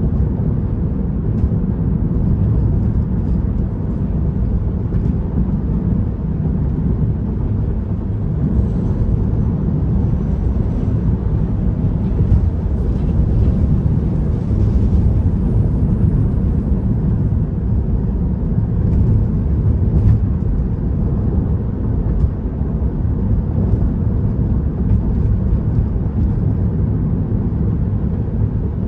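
Steady low road and tyre rumble inside a Tesla's cabin while cruising at freeway speed.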